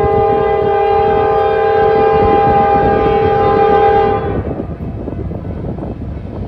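Locomotive air horn sounding one long steady blast of about four seconds over the rumble of a passing train, whose rumble carries on after the horn stops.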